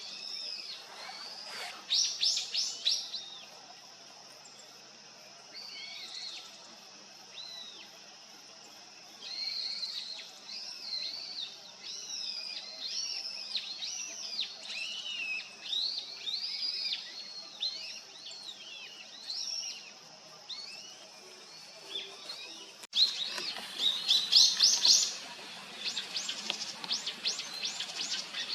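Small wild birds chirping and calling in a varied series of short high notes and warbled phrases. About 23 s in the sound cuts to a denser, louder run of quick chirps.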